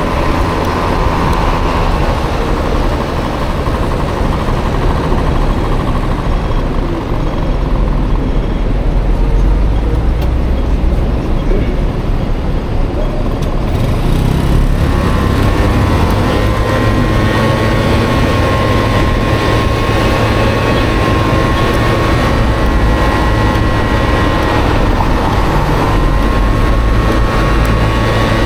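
Honda Motocompo with a swapped-in Honda Dio scooter engine running under way, with road and wind noise. About halfway a steady engine whine comes in and holds.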